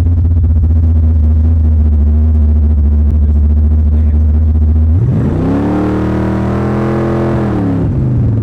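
Car engine idling with a steady low rumble, then revved up about five seconds in, held for a couple of seconds and let fall back to idle near the end.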